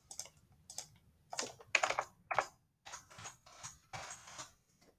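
Typing on a computer keyboard: a run of irregular key presses.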